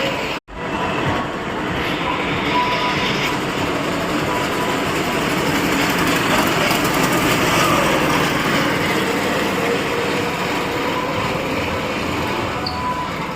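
Vehicle engines running steadily amid loud event noise, cut off for a split second about half a second in.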